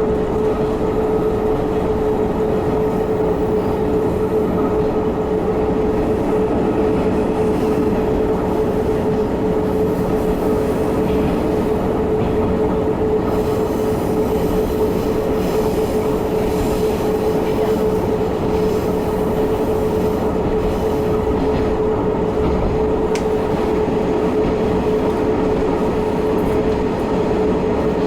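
Diesel railcar running steadily along the line, heard from inside the passenger car: continuous engine and wheel noise with a constant mid-pitched whine.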